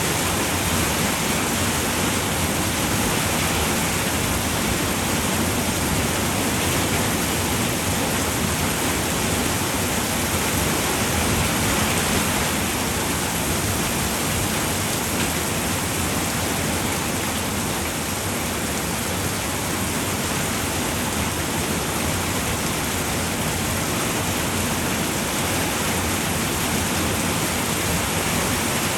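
Steady rain falling on a roof, an even hiss without pause or change.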